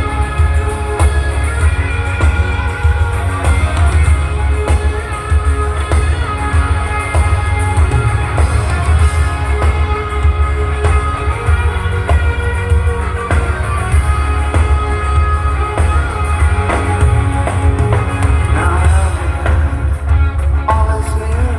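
Rock band playing a song live, loud, with guitars over bass and drums.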